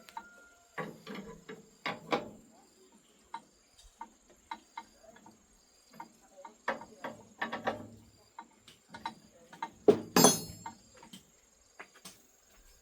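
Irregular clicks and knocks of hand repair work on a rice-separating machine, with a louder clatter about two seconds in and again about ten seconds in.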